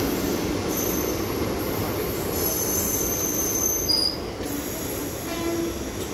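Indian Railways passenger train coaches rolling past on the track with a steady rumble. Thin high wheel squeals come and go between about one and four seconds in.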